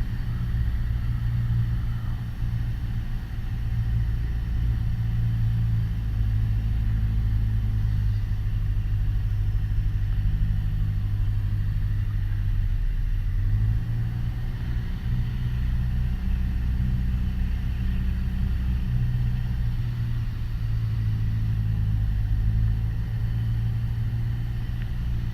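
Piper Warrior's four-cylinder piston engine and propeller droning steadily at reduced approach power, heard from inside the cockpit. The pitch of the drone shifts slightly about halfway through and again a few seconds later.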